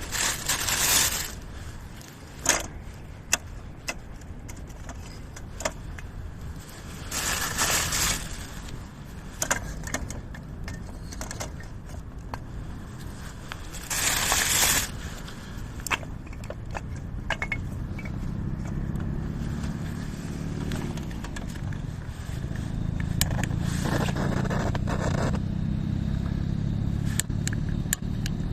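Tending a fire in a camp fire stand: scattered sharp clicks and scrapes, and a few short rushing noises of about a second each. A low rumble builds up over the second half.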